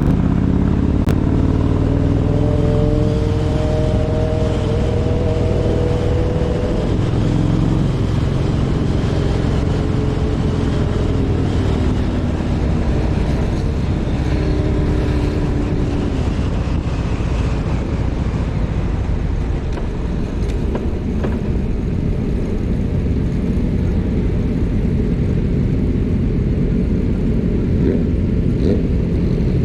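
Kawasaki Vulcan 1700 Voyager V-twin motorcycle running on the road with heavy wind rush on the microphone. Its engine note rises and falls in the first half, then holds steadier under the wind noise.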